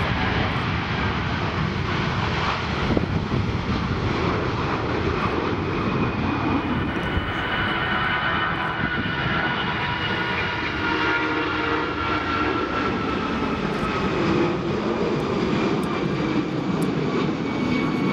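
Jet airliner passing close by, its engines running loudly, with a whine that slowly falls in pitch from about the middle on. Wind buffets the microphone throughout.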